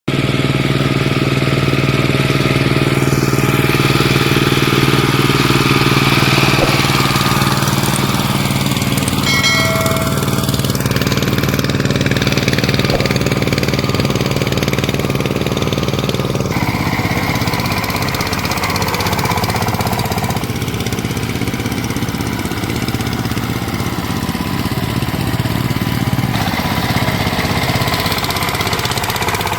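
VST Shakti 130 DI power tiller's single-cylinder diesel engine running steadily, with an abrupt change in its sound about halfway through.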